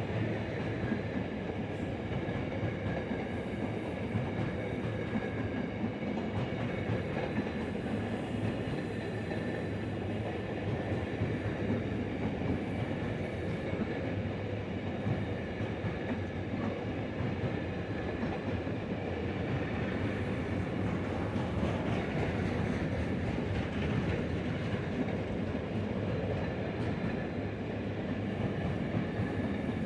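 A Class 66 diesel locomotive hauling a freight train past on the Daventry to Doncaster working. The rumble and clatter of the wagons rolling by holds steady throughout, with faint thin high tones over it.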